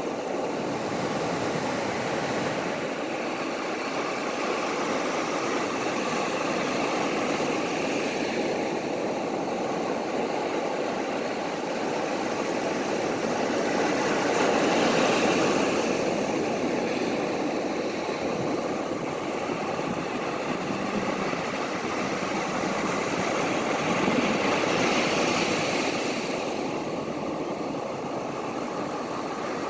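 Ocean surf: a continuous rush of water noise that swells louder twice, about halfway through and again near the end, as waves break.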